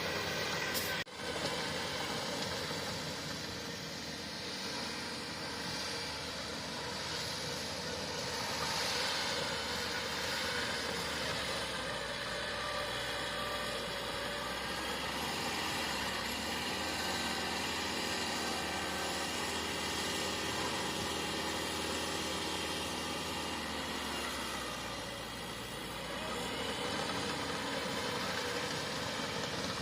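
Crawler bulldozer's diesel engine running steadily, its loudness swelling and easing a little as it works, with a brief break about a second in.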